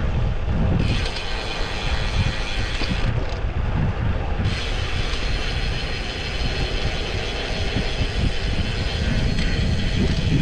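Wind buffeting the microphone of a camera riding along on a moving road bike, heard as an uneven low rumble, with a steady hiss of tyres and road noise over it.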